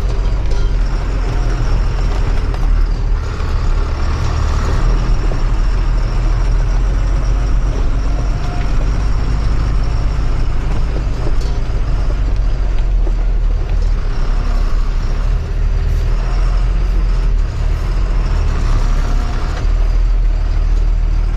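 Heavy goods truck running steadily on the move, a strong, even low engine rumble with road noise.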